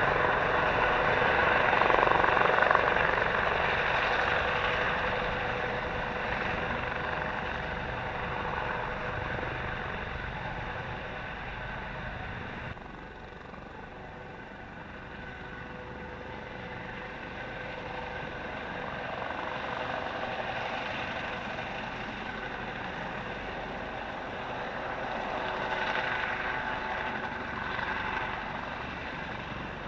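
Army Eurocopter AS 365N3 Dauphin helicopter running, its twin turbines giving a steady whine over the rotor noise. It is loudest at first and fades over the first dozen seconds, drops abruptly about 13 s in, then grows louder again near the end.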